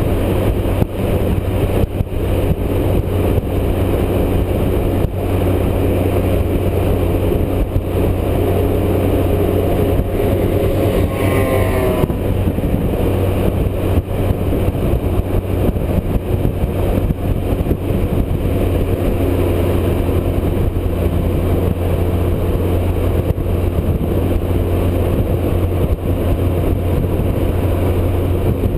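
Motorcycle riding at highway speed: a steady low engine drone under a constant rush of noise, with a brief rising whine about eleven seconds in.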